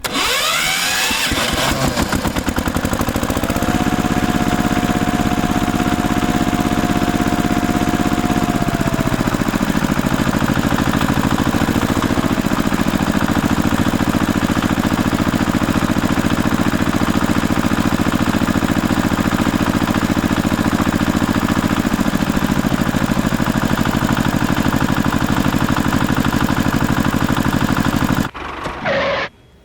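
Engine starting suddenly and running steadily at a constant speed, then cutting off abruptly near the end.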